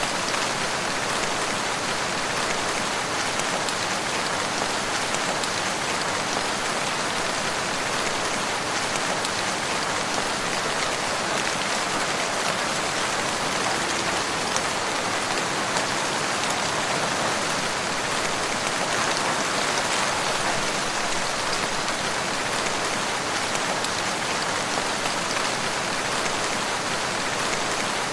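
Steady rain falling on a surface, an even hiss that does not let up.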